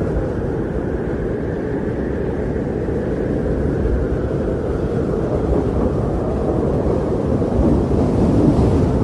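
Strong blizzard wind blowing in a steady low roar, swelling a little in gusts near the end.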